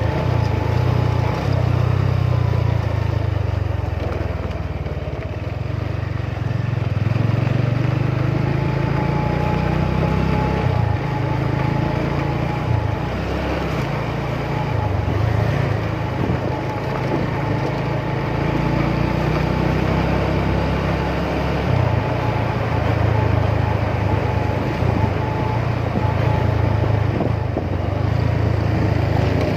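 Motorcycle engine running while riding, its low note coming and going with the throttle, over a steady haze of wind and road noise.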